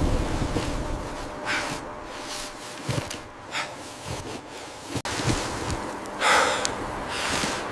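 Heavy, breathy exhalations or snorts: a few strong breaths a couple of seconds apart, the loudest near the end, with a couple of faint clicks between them.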